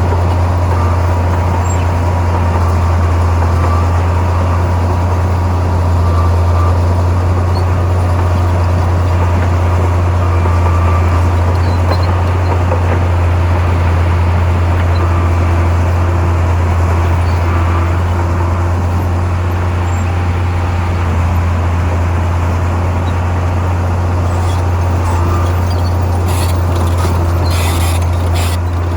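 Heavy diesel earthmoving machinery running steadily with a deep, constant engine drone. A few sharp clicks come near the end.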